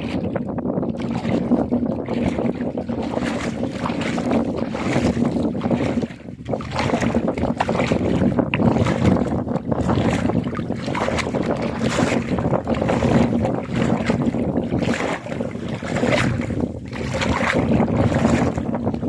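Gusty wind buffeting the microphone, swelling and dropping every second or two, over a steady low hum, with a brief dip about six seconds in.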